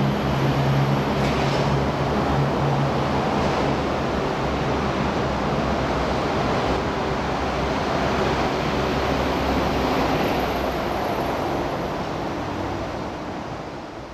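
Steady rushing hum of an MTR SP1900 electric train standing at an underground-style station platform, with a low droning tone underneath, fading away near the end.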